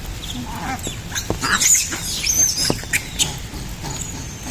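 High-pitched squeaky animal calls: a few short, arched squeals, loudest just before the middle, with some sharp clicks among them.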